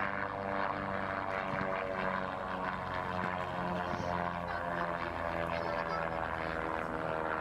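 Cessna 337 Skymaster's front and rear propeller engines droning steadily as it flies past.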